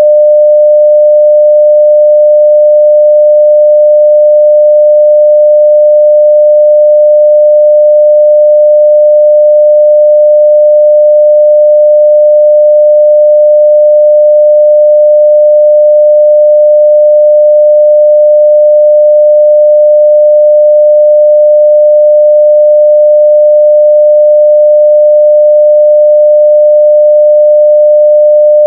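A steady 600 Hz sine-wave test tone at full level (0 dB), one pure pitch held without change.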